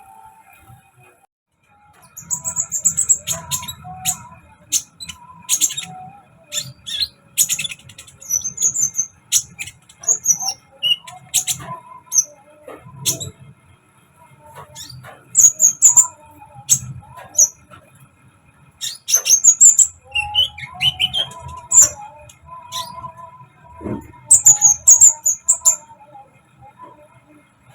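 Konin songbird singing in bursts of sharp, high chirps and short trills, separated by brief pauses, starting about two seconds in; this is a lure song used to set other konin singing.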